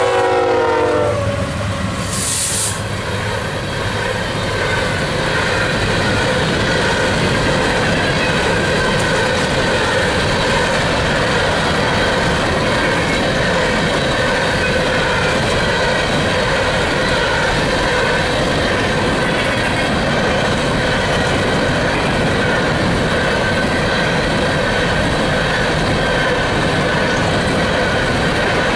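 Empty BNSF coal train rolling past: the lead locomotive's horn chord trails off in the first second, then the string of empty coal cars passes with a steady rolling rumble and wheel clatter on the rails.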